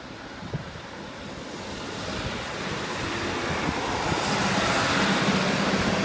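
Diesel multiple-unit passenger train approaching and running past a level crossing: a steady rushing rumble of wheels and engine that grows steadily louder. A low engine drone joins it about four seconds in.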